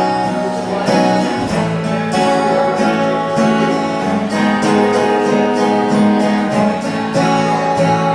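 Instrumental break in a live folk song: guitar playing, with long held melody notes over it.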